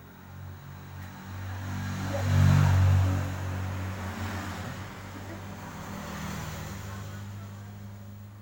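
A motor vehicle's engine running with a steady low hum, growing louder to a peak about three seconds in and then slowly fading, as when a vehicle passes by.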